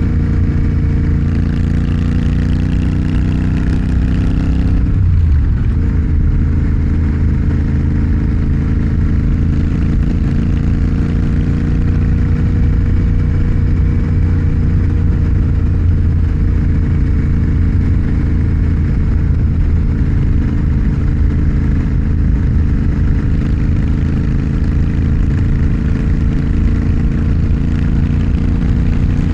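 Motorcycle engine running steadily while riding, its note changing about five seconds in and then holding even.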